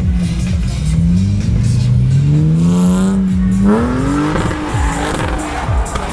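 BMW E36 inline-six engine revving up, its pitch climbing steadily, then jumping higher a little past halfway and climbing on.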